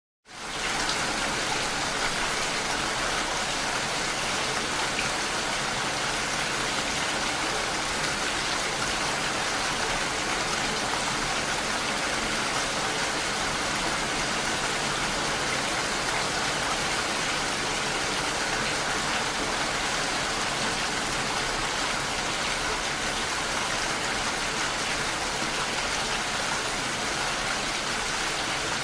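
Steady, dense rain falling, an even hiss without pauses that fades in right at the start.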